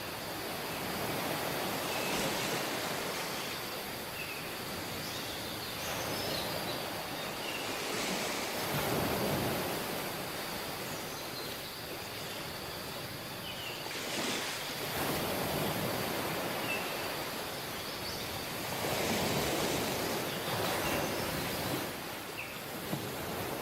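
Surf on a beach: small waves washing in and drawing back, the rush swelling and easing every few seconds.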